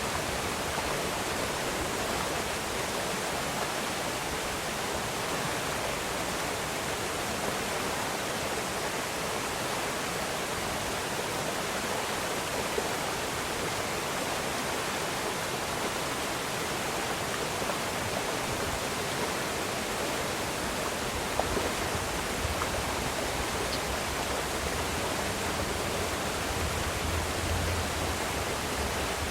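Steady rushing of flowing river water, an even hiss, with a faint low rumble added near the end.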